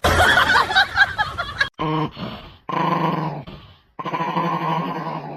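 A dog vocalizing: after a noisy, jumbled first second or so, it gives three drawn-out low calls of steady pitch, the last and longest near the end.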